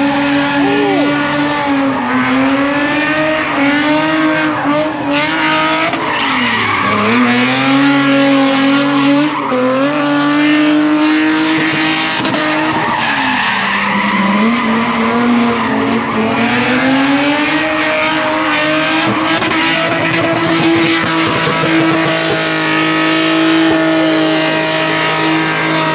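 A car drifting, its engine held high in the revs over continuous tyre squeal. The engine pitch dips sharply and climbs back a few times, about 2, 7 and 14 seconds in.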